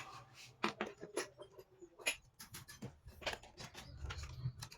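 Irregular light clicks and knocks of hand tools and small metal parts being handled during a motorcycle starter motor repair.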